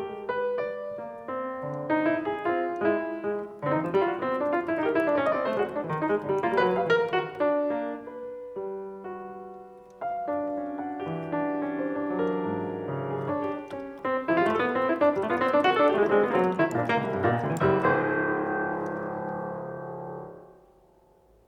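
Piano played in dense, flowing runs and clusters of notes, ending on a held chord that dies away about twenty seconds in.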